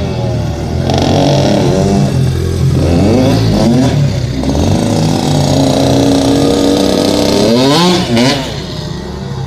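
Dirt bike engine revving, its pitch climbing and falling several times as the throttle is opened and closed.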